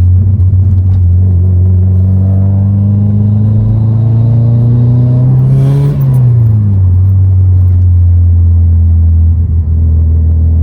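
2003 Subaru WRX's turbocharged flat-four engine pulling under load, its pitch rising steadily; about six seconds in the throttle is lifted and a short turbo flutter sounds as the revs drop, after which the engine runs steadily at lower revs. The flutter is compressor surge, made by a block-off plate on the bypass valve.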